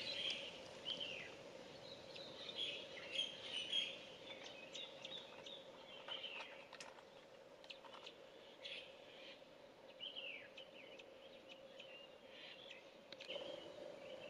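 Birds calling: short, high, shrill calls, several sliding downward, repeated irregularly, over a steady low hum.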